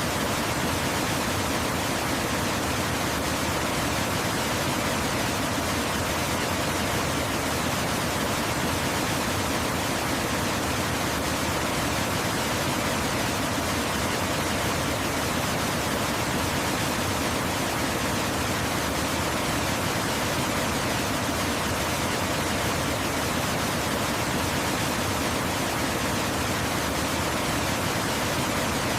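Waterfall, its falling water making a steady, even rushing hiss with no change.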